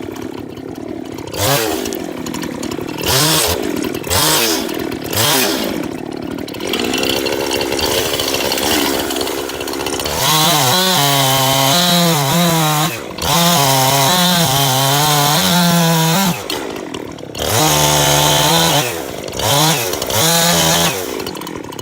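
Two-stroke chainsaw blipped from idle several times in the first few seconds, then held at high revs in long runs while cutting jarrah firewood. The pitch wavers and sags under the load and drops briefly between cuts.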